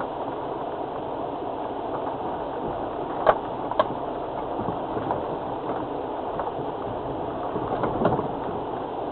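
Land Rover Freelander TD4 diesel 4x4 being driven along a rough, wet off-road lane: a steady running and rumbling sound, with two sharp knocks a little over three seconds in and a softer knock near the end.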